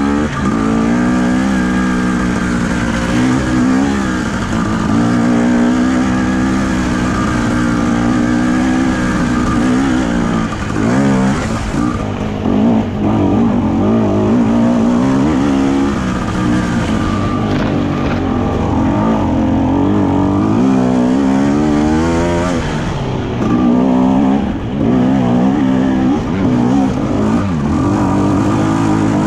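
Enduro dirt bike engine running under load, its pitch rising and falling constantly with the throttle, with a couple of brief drops in revs about eleven and twenty-four seconds in.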